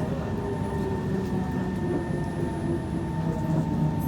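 Kawasaki C151 electric multiple unit running along the line: a steady rumble of wheels and running gear, with a constant high electrical hum over it.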